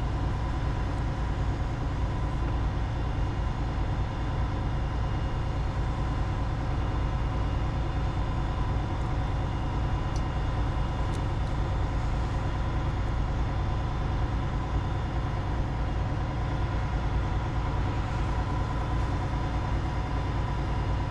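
Steady low engine-like drone with a couple of faint constant tones above it, holding even throughout with no change in pace.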